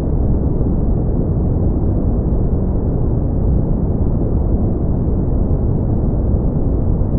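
Steady brown noise: an even, deep rumbling hiss with most of its weight in the low end, fading away toward the highs and holding a constant level.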